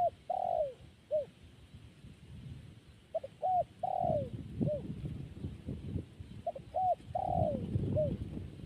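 A dove cooing, repeating its phrase about every three seconds: two short coos, a longer falling coo, then one short coo.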